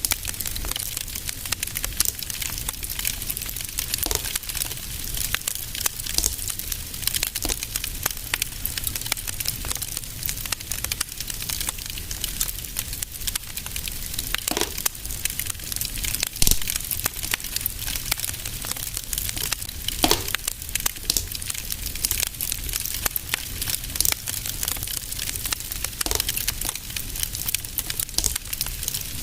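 Wood fire crackling in a fireplace: a steady hiss with a low rumble and frequent small snaps, and a few louder pops.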